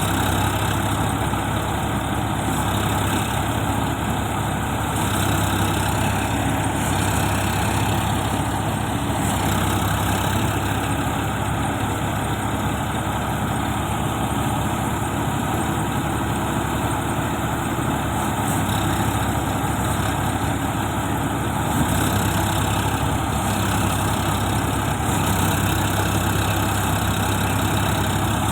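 Sonalika Sikandar 47 tractor's diesel engine idling steadily.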